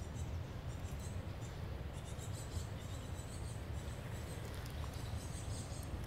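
Outdoor ambience with faint, short, high chirping of small birds over a steady low rumble.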